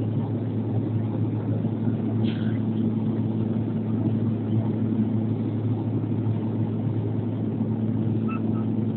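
Antonov An-140 turboprop engines and propellers running in a steady drone, with a constant low propeller hum, during the landing approach.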